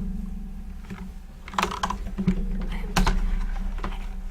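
Keys of a backlit computer keyboard tapped a handful of times, separate clicks at uneven spacing.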